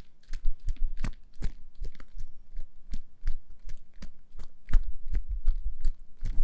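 Close-miked ASMR crunching: a run of sharp, crisp clicks and crunches, irregular, several a second, some with a soft low thump.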